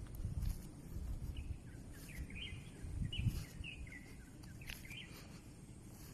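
Small birds chirping in a run of short, quick calls, over a steady low rumble.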